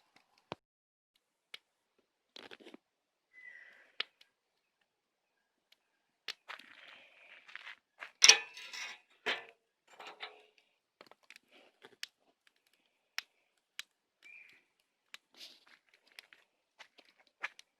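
Bonfire of dead branches crackling, with scattered sharp pops and a denser run of crackling around the middle, its loudest pop a little before halfway.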